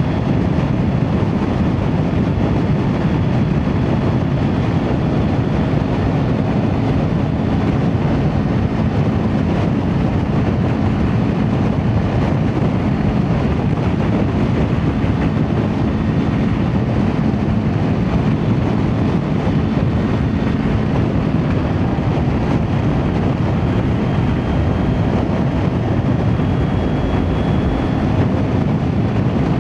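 Kawasaki Ninja 400's parallel-twin engine through an Akrapovic exhaust, running at a steady engine speed while riding, with road and wind noise.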